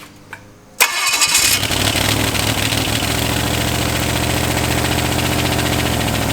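283 small-block Chevy V8, running on only four cylinders with one head removed, starts suddenly about a second in and settles into steady running.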